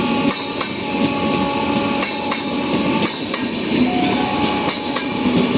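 Express train accelerating away, its coaches' wheels clattering over rail joints in irregular clicks over a loud, steady rolling noise and a steady whine.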